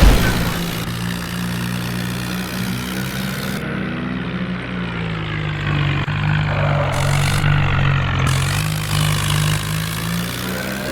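Tractor's diesel engine running steadily, its pitch sagging slightly and recovering a couple of times, with a loud low thump right at the start.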